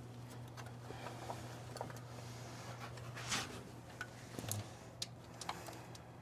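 Light, scattered clicks and taps of fingers and metal as a small bolt in a truck's engine bay is worked at by hand, over a steady low hum.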